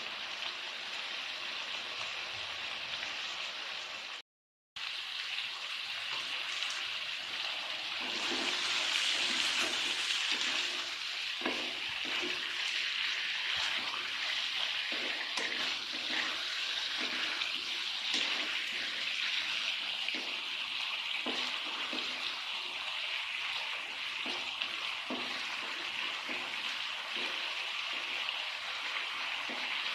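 Food frying in a pan: a steady sizzle, with scattered short clicks and scrapes. The sound cuts out for a moment about four seconds in, then swells for a couple of seconds.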